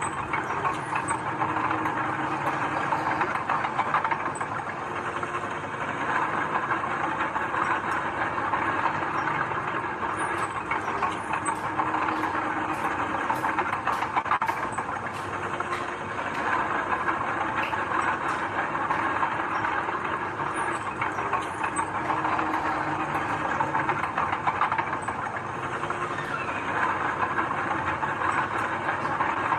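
Heavy diesel earthmoving machinery running steadily, with scattered metallic clanks and rattles, most of them around the middle.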